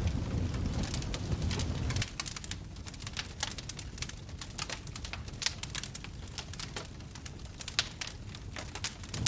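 Wood fire crackling in a fireplace: a low rumble for about the first two seconds, then a dense, irregular run of sharp pops and snaps.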